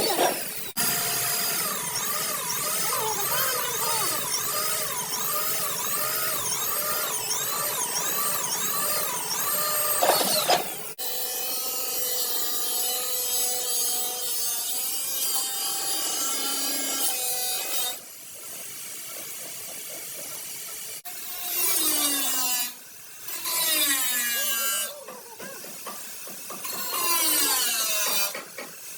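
Handheld electric power tool running on the work, its pitch dipping and recovering about every half second as it is pressed on and eased off. The sound changes abruptly a few times, at about 11, 18 and 21 seconds in.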